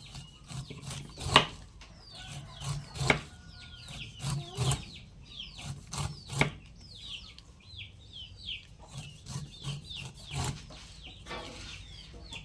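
Many short, high chirps of birds, each falling in pitch, go on throughout. Sharp knocks come every second or two and are the loudest sounds.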